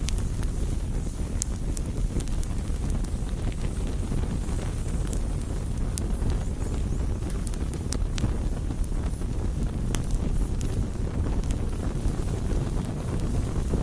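Campfire crackling, with scattered sharp pops over a steady low rumble of wind on the microphone.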